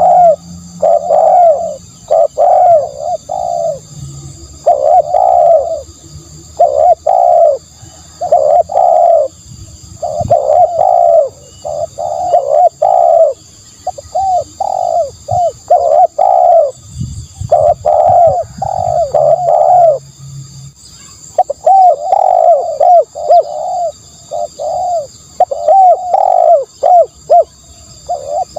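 Spotted dove cooing close to the microphone, one phrase of three to five coo notes after another with short pauses between them.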